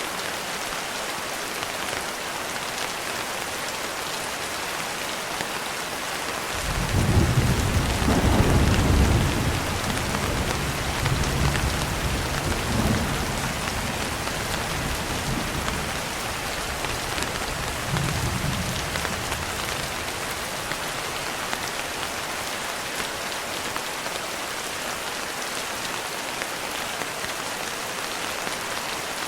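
Steady rain pattering on a window. About seven seconds in, a long roll of thunder rumbles up, swells again twice, and dies away a little past the midpoint.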